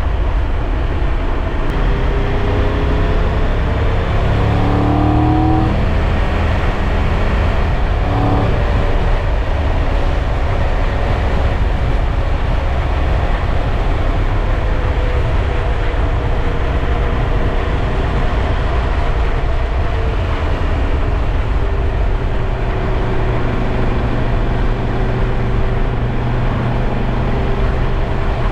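Triumph Tiger 1200 Rally Pro's three-cylinder engine under way, over a steady loud rush of wind and road noise. The engine pitch rises as it accelerates about four to six seconds in, then steadies.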